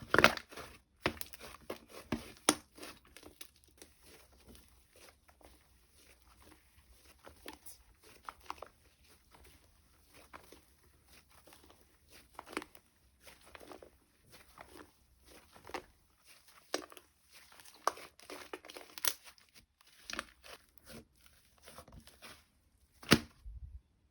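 Slime being stretched, folded and squished by hand, giving irregular wet pops and crackles, with a few louder pops near the start and again near the end.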